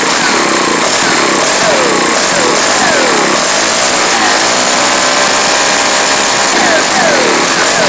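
Straight-piped 4-cycle Ryobi string trimmer engine running loud, revving up and dropping back again and again, with a steadier stretch about halfway through. The owner says it needs carburettor adjustment.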